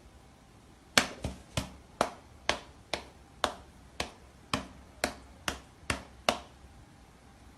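A run of about a dozen sharp taps or knocks, roughly two a second, starting about a second in and stopping after about six seconds.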